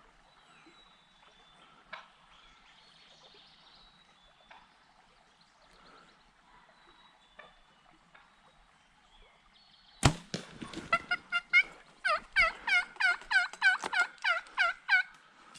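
Turkey calling close by: a loud rapid series of about two dozen descending notes, about five a second, starting suddenly about ten seconds in and lasting about five seconds. Before it, faint songbirds over a quiet background.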